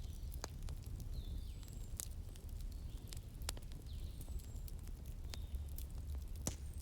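Wood fire crackling, with a handful of sharp pops spaced a second or two apart over a low steady rumble, and faint high bird chirps in the background.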